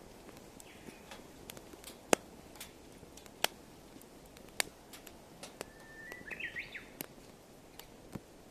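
Wood fire crackling, with irregular sharp pops and snaps from the burning firewood. A bird calls briefly about six seconds in, with a quick run of rising chirps.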